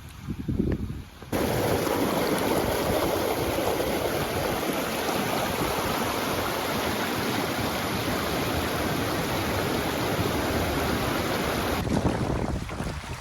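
A steady rushing noise with no pitch or rhythm. It cuts in abruptly about a second in and cuts off abruptly near the end.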